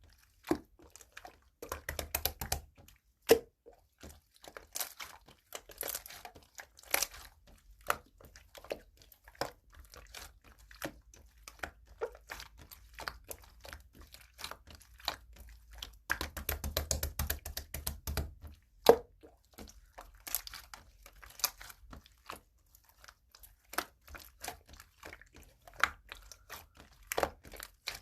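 Slime being squeezed, folded and poked by hand, making many small clicking pops and wet squelches. Denser crackling comes around two seconds in and again from about sixteen to eighteen seconds in, with a sharp single pop about three seconds in and another near nineteen seconds.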